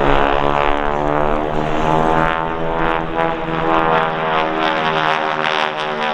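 Biplane's piston engine and propeller running at high power during an aerobatic display, the engine note rising and falling in pitch as the aircraft manoeuvres overhead.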